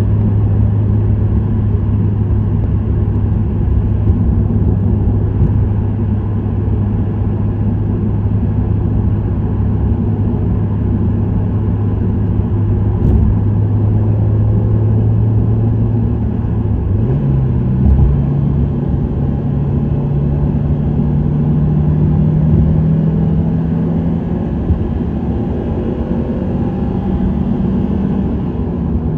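Subaru WRX STI's turbocharged flat-four running through an STI Performance muffler at steady cruising speed, over tyre and road noise. About halfway through the engine note steps up in pitch and then climbs slowly as the car picks up speed, easing back a little near the end.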